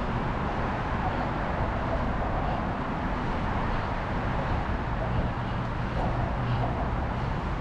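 Steady city traffic and wind noise heard from a moving bicycle, with a low hum that grows louder about five seconds in.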